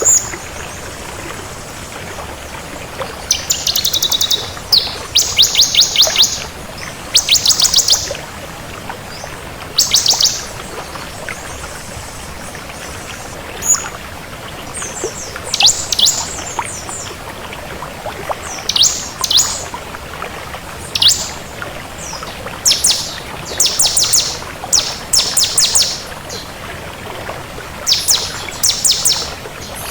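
Bar-winged prinia (ciblek kristal) singing: bursts of fast, high trills a second or two long, coming every few seconds, over a steady hiss.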